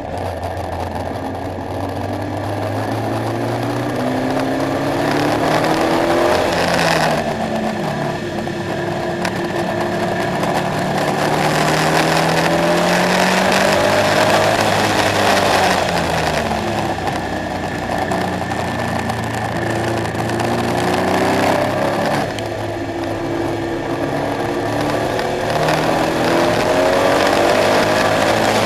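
KTM X-Bow's engine pulling hard through the gears at track speed. Its pitch climbs and breaks at several gear changes, and falls away between pulls as it slows for corners.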